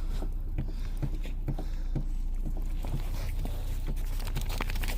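Light, irregular taps and scuffs of beagles moving about on their feet, over a steady low hum.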